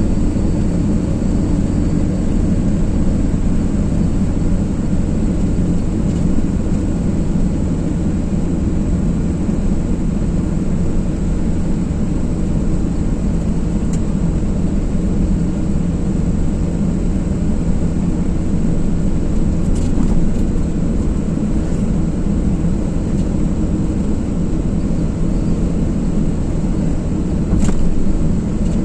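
Car driving at a steady speed: a constant low rumble of tyres on the road, engine and wind noise.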